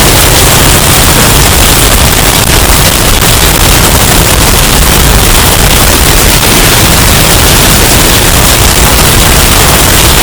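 Hurricane wind sound effect, bass boosted and clipped into a steady, heavily distorted rush of noise.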